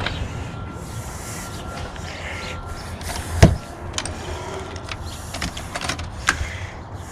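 Handling noise from work on a boat, with scattered clicks, one loud knock about three and a half seconds in and a lighter one near six seconds.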